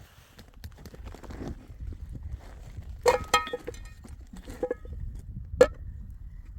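A few sharp clinks and knocks with a short ringing tone, a quick cluster about three seconds in and a single louder knock near the end, over a steady low rumble.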